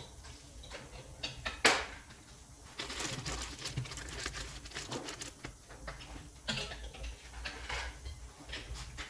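Irregular light clicks and taps, with one sharper knock a little under two seconds in.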